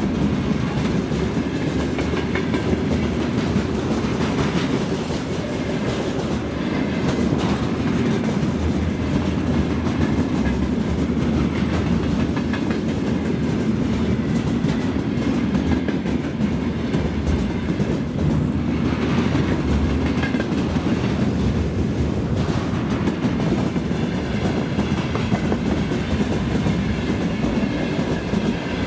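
Freight train rolling past at speed, a steady rumble with the wheels clattering rhythmically over the rail joints.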